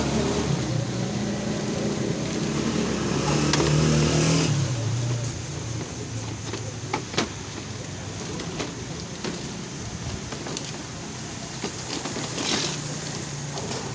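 An engine running with a steady low hum that rises a little in pitch and then stops about four and a half seconds in. After it, lighter scattered clicks and knocks.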